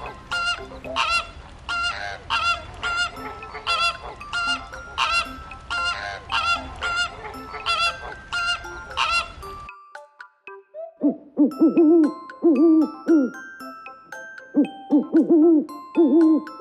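Bird calls: a series of loud, repeated honks over a steady noisy background, cut off abruptly about ten seconds in. After a short pause, lower repeated hooting calls begin, with light chiming music notes behind them.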